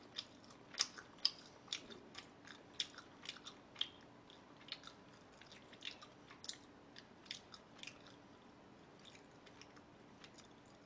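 Close-miked chewing of food: a quick run of sharp, wet mouth clicks and small crunches, several a second, thinning out over the last few seconds.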